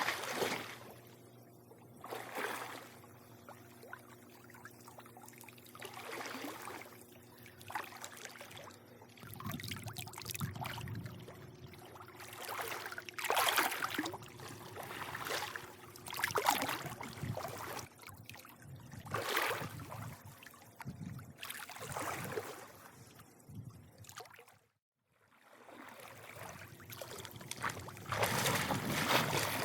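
Pool water lapping and sloshing in irregular swells every second or two, with a faint steady hum underneath. The sound drops out briefly about 25 seconds in.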